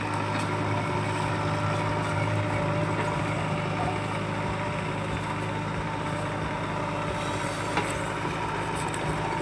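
Heavy diesel machinery engine running steadily at a constant pitch, with one sharp knock near the end.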